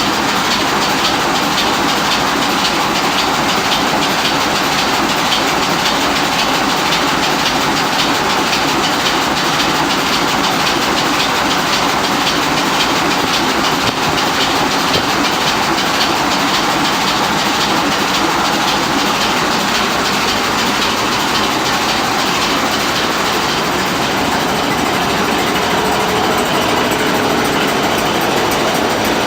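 An engine that has been in service for 45 years, running steadily at a constant speed with a fast, even clatter.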